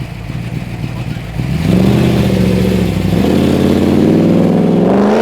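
A car engine accelerating hard. It rumbles low at first, then about a second and a half in it gets loud and its pitch climbs, drops back briefly and climbs again, like a car pulling away through the gears.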